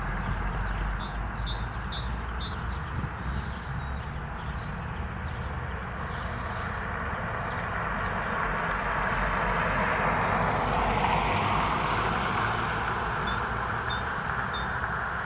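Airport apron noise: a steady low rumble and hiss of aircraft machinery that swells about eight seconds in, with small birds chirping briefly near the start and again near the end.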